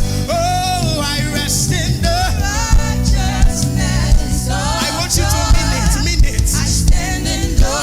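Live gospel worship music: a band with bass and drums playing under sung vocals.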